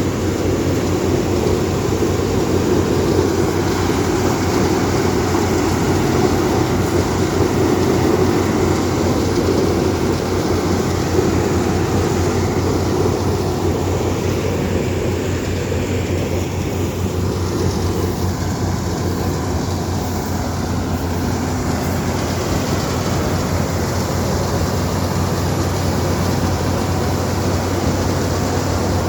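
Harvest machinery running steadily while cutting paddy: a constant engine hum with a steady low drone, easing slightly midway and coming back up.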